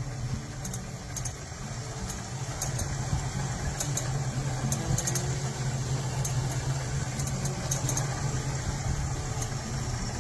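A car engine idling steadily, with scattered light clicks.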